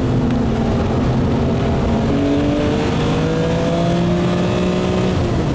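BMW E36 M3 Evo's S50B32 3.2-litre straight-six running hard under load, its pitch rising slowly as the car accelerates, then dropping near the end.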